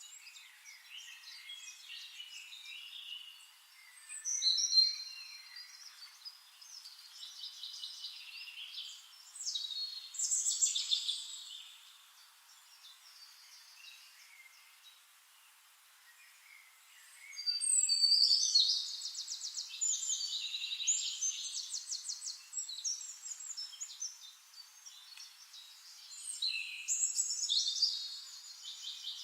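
Small birds chirping and trilling in bursts, with quieter gaps between them; the loudest bursts come about 4 s, 10 s, 18 s and 27 s in.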